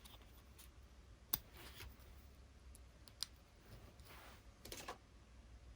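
Near silence broken by a few faint sharp clicks, one about a second and a half in and another near three seconds, with a soft rustle near the end.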